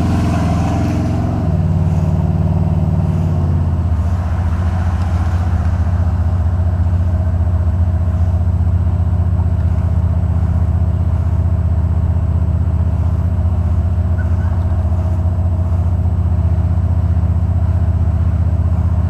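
Buick 455 Stage 1 V8 running with a low, even note. The note eases over the first few seconds, then holds steady. It is running on new header gaskets with no exhaust leak.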